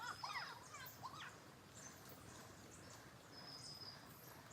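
Faint outdoor quiet with a few quick bird chirps in the first second. A thin, high, steady note comes at the start and again about three and a half seconds in.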